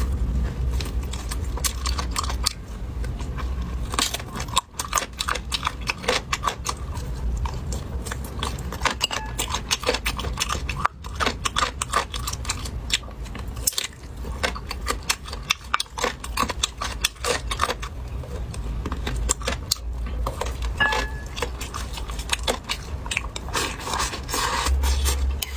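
A person eating close to the microphone: chewing, with dense, irregular clicks and clinks of utensils on dishes, over a steady low hum.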